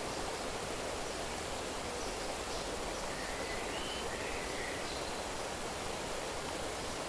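Nature ambience: a steady, even rushing noise with a few faint, short bird chirps scattered over it.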